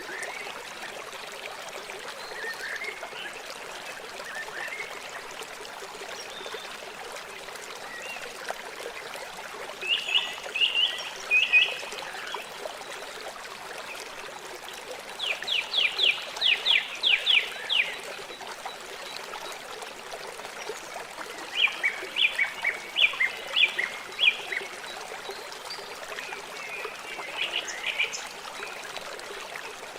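River water flowing with a steady rushing and trickling. Over it, birds chirp in several bursts, one a quick run of about four notes a second lasting a few seconds.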